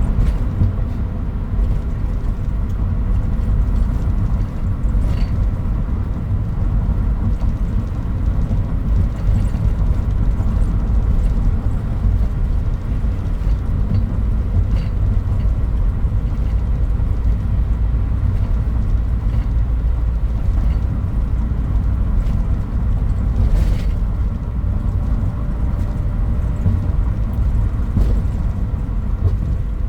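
Toyota Hilux Mighty-X pickup truck driving along: a steady low rumble of engine and road noise, with a faint click about five seconds in and another about three-quarters of the way through.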